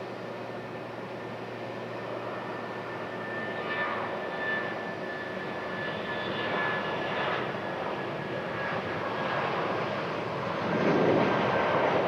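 Jet airliner engines, most likely a Boeing 757-300's, running with a steady rushing noise and a thin whine, growing louder toward the end.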